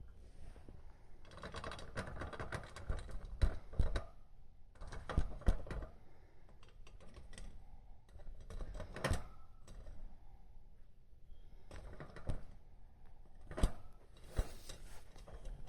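Budgerigar pecking and tapping at hard objects: quick, irregular clicks and light taps, with a few sharper knocks.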